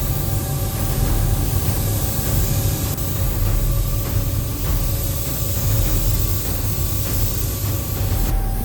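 A motor-driven machine running steadily with a loud, even hiss over a low hum.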